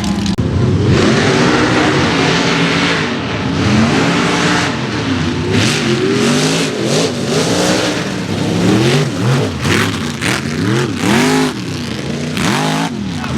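Mega mud truck's engine revving hard, its pitch climbing and falling over and over as the throttle is worked, with loud bursts of noise in between.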